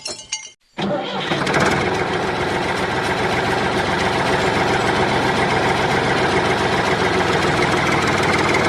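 An engine starting: a few clicks at the start, a brief gap, then the engine catches about a second in and runs steadily.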